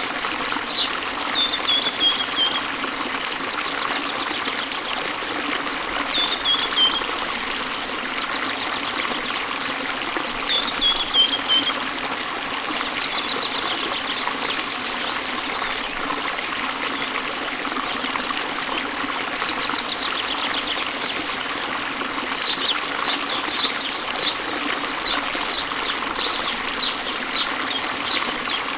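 Steady rushing water of a waterfall with songbirds singing over it. A short falling run of notes comes three times in the first half, and a quick series of high notes follows near the end.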